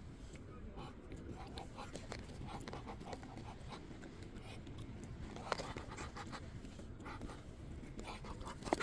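Ducks' bills snapping and nibbling at bread held in a hand: a scatter of small clicks and pecks, with a sharper snap about five and a half seconds in.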